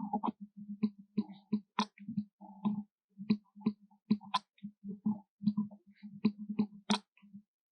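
Monkeys chewing papaya: irregular wet smacks and clicks of eating, about two or three a second.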